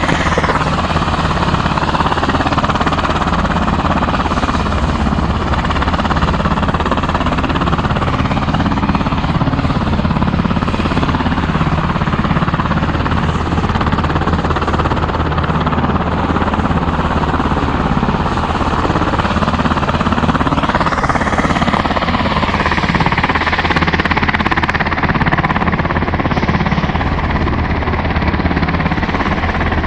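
H-60L Black Hawk helicopter running loud and steady, its twin turbine engines and rotor giving a fast, even pulsing; a rising whine comes in about two-thirds of the way through.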